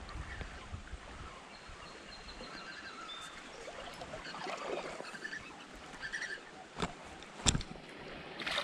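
Small trout creek flowing steadily, with faint bird chirps, and two sharp clicks close together near the end.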